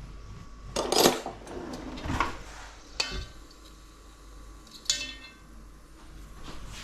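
Kitchen utensils knocking and scraping against dishes and pans: several separate clatters, the loudest about a second in and a sharp one near the end.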